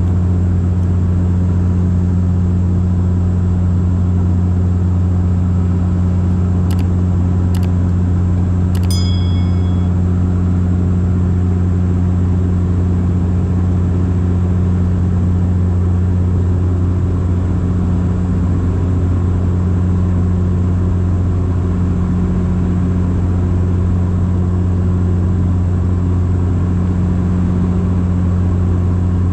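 Bombardier Dash 8 Q400 turboprop heard from inside the cabin: a loud, steady, low propeller drone. About seven and eight seconds in come two sharp clicks, and about nine seconds in a short ringing ding.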